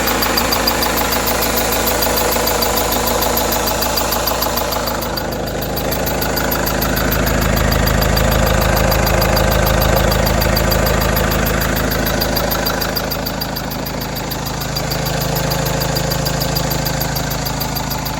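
Freshly rebuilt Renault F9Q 1.9 dCi diesel idling, with a high-pitched squeak (писк) that repeats rapidly in time with the engine. The squeak is not from the drive belt or the tensioner, and the unchanged water pump and timing-belt tensioner roller are the parts left as suspects. The engine sound grows louder in the middle and again near the end.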